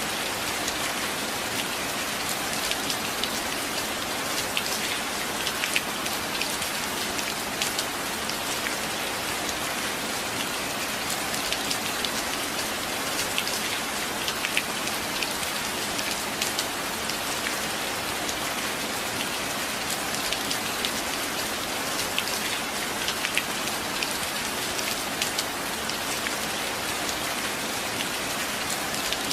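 Steady rain, an even wash of noise with many small, sharp drop ticks scattered through it.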